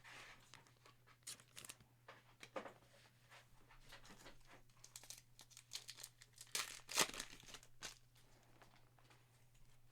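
Faint crinkling and rustling of trading-card packaging and cards being handled, in scattered short crackles; the loudest comes about seven seconds in.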